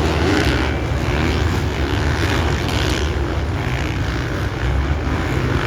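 Dirt-bike engines running together on a supercross track, a steady loud drone without clear rises in pitch.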